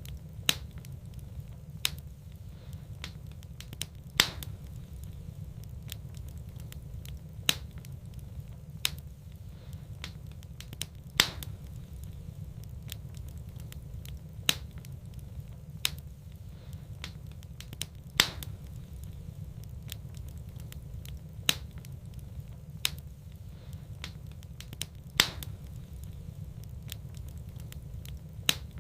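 Wood fire in a fireplace crackling, with sharp, irregular pops every second or few seconds over a steady low rumble of the flames.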